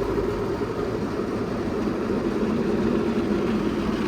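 Steady, even rumble of an automatic car wash heard from inside the car.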